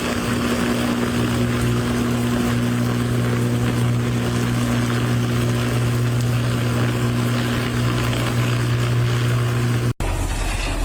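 A steady engine-like drone, a constant low hum under a rushing noise, that cuts off suddenly near the end.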